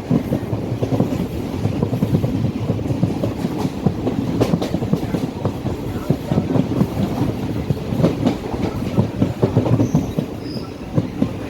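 Moving passenger train heard from a window seat inside the coach: a steady clatter of the wheels over the rails and the coach rattling, a dense run of irregular knocks.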